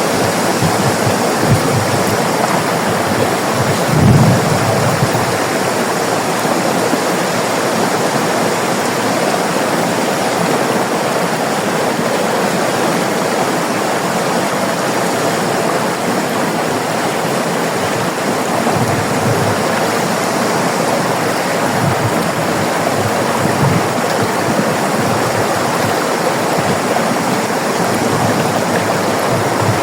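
River water rushing and splashing over rocks in a steady, full rush, with an occasional low surge, strongest about four seconds in.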